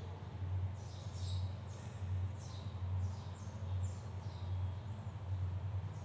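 Birds chirping in short, quick downward-sliding notes, a few each second, over a steady low hum.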